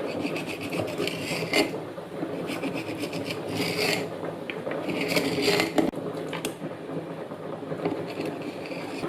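Kitchen utensil scraping and rubbing during food preparation, in a series of irregular strokes.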